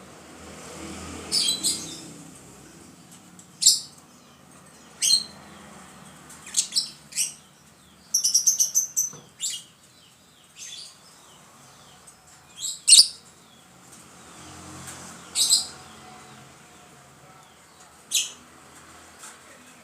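Lovebird giving shrill, short calls at irregular intervals, with a quick run of repeated chattering notes about halfway through.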